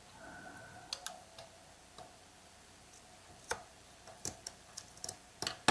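Scattered light clicks and taps of small chainsaw parts being handled during reassembly, a couple about a second in and several more close together near the end, over a faint steady hum.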